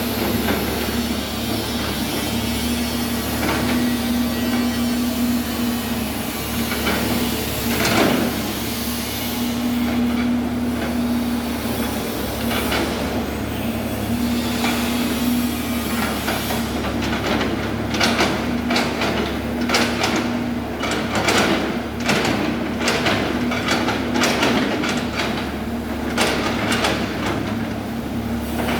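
Excavator at work: a steady machine hum that rises and falls. In the second half comes a rapid series of clanks and clatter, metal and stone knocking together.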